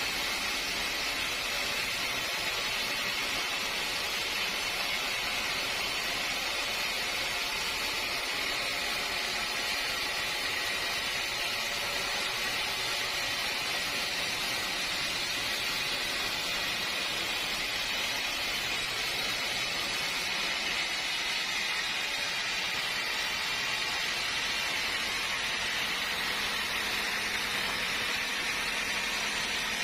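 Steady, unbroken hiss of sawmill machinery running, with no changes in pitch or level.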